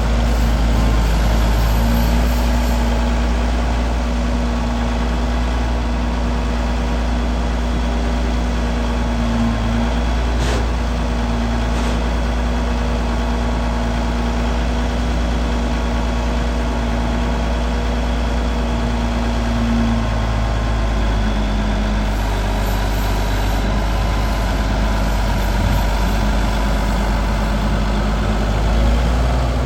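Case IH 9270 four-wheel-drive tractor's diesel engine running steadily at idle, a deep rumble with a steady hum above it; the engine note shifts slightly about two-thirds of the way through.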